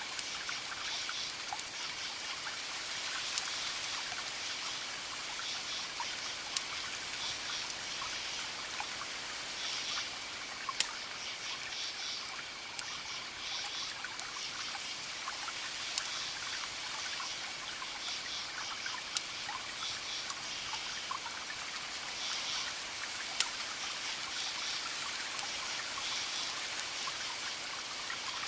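Campfire crackling, with a sharp pop every few seconds, over a steady chorus of crickets chirping in repeated high bursts and a faint continuous trill.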